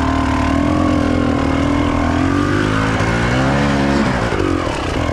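Enduro motorcycle engine running just after being started, its pitch wavering with the throttle, climbing around three seconds in and dropping back about a second later.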